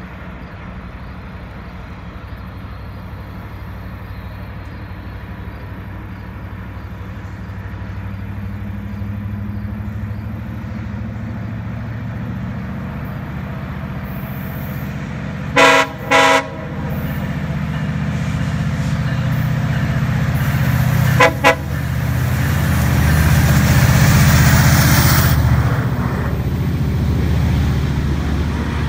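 GO Transit diesel commuter train approaching and passing underneath: a low engine rumble that builds and peaks as the train goes by. The horn sounds two short blasts a little past halfway and two quicker toots a few seconds later, before the loudest stretch of the passing.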